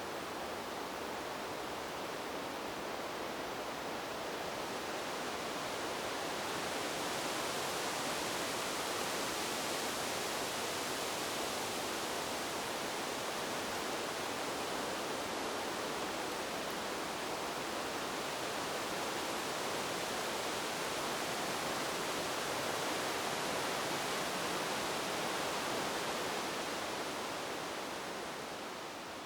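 Wind blowing through a bamboo grove: a steady rushing noise that swells a little a few seconds in and begins to fade near the end.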